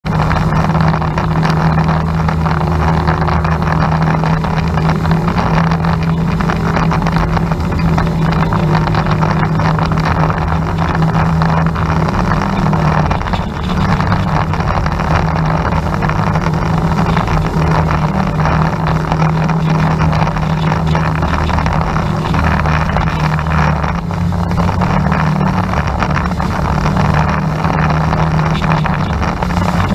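Tour boat's motor running steadily as a constant pitched hum, with water noise and wind buffeting the microphone.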